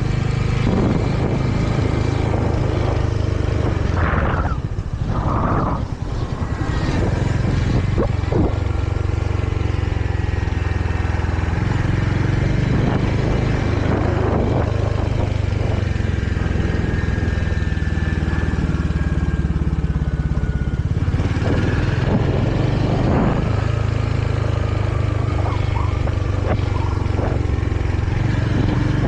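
Royal Enfield Hunter 350's single-cylinder engine running under way on a ride, with a brief dip in level about five seconds in.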